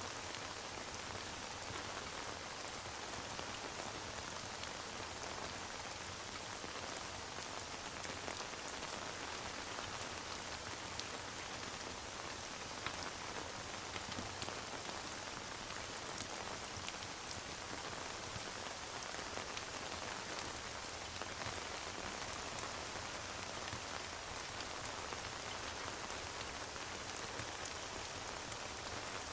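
Steady rain ambience, an even hiss flecked with many small ticks and crackles, mixed with a fireplace.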